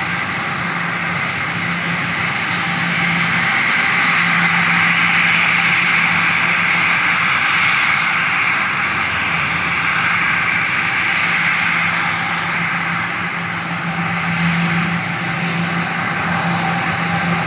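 Airliner's engines: a continuous loud roar with a low steady hum beneath. It swells a little a few seconds in and eases somewhat after about twelve seconds.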